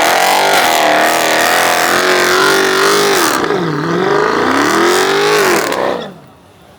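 Car engine revved hard and held at high revs, its pitch wavering, dipping once near the middle and climbing again, then falling away about six seconds in.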